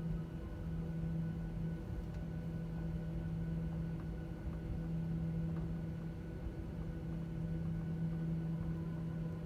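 Steady hum inside the cabin of a Boeing 737-900ER on the ground, with one constant low tone and its overtones, and a few faint clicks.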